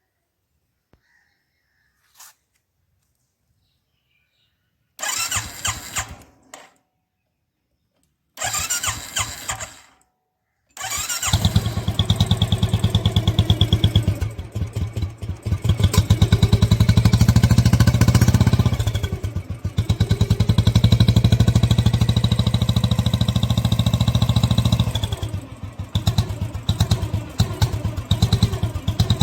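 Royal Enfield Classic 350 single-cylinder motorcycle engine cranked twice briefly, then catching about 11 seconds in and running with an even thump. A thin, steady high whistle comes from the turbo-sound whistle fitted in its exhaust, and the revs dip twice.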